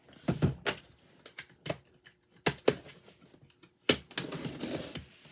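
Cardboard boxes being handled: a series of sharp knocks and taps as they are pulled out and set down, then a short rustling scrape near the end.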